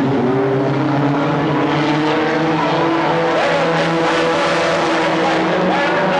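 Several stock car engines running together as the cars race around the track: a loud, steady blend of engine tones, some rising and falling in pitch.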